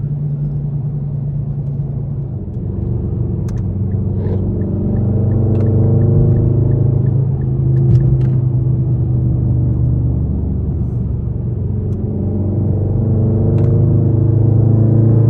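Straight-piped Infiniti M56's 5.6-litre V8 exhaust droning at a steady cruise, swelling and easing slightly with light throttle.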